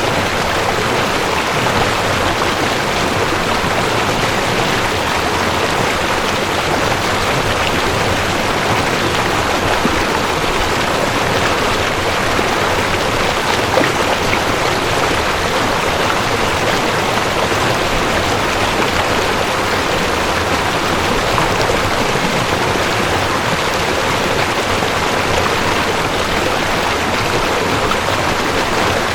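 Mountain stream rushing over rocks: a steady, even water rush.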